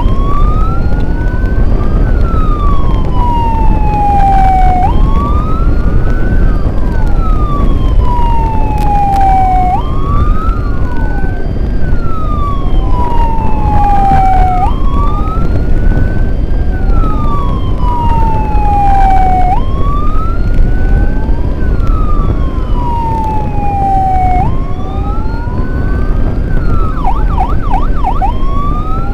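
Emergency convoy siren wailing, rising quickly in pitch and then sliding slowly back down about every five seconds, switching briefly to a fast warble near the end. A steady low rumble of engine and road noise runs underneath.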